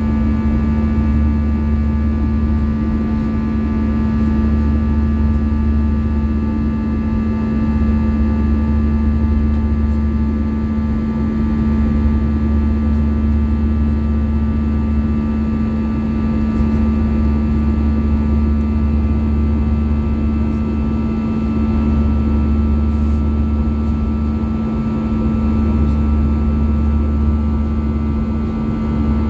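Steady cabin noise inside an Airbus A320-200 with its CFM56 engines running: a constant low hum with a steady droning tone and fainter whining tones above it, unchanging throughout.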